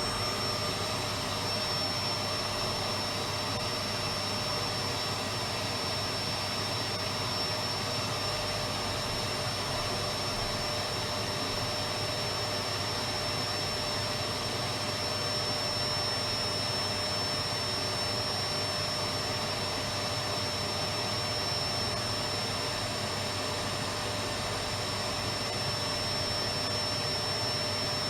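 Electric vacuum cleaner running steadily: an even rushing of air with a constant high whine on top, holding the same pitch and level throughout.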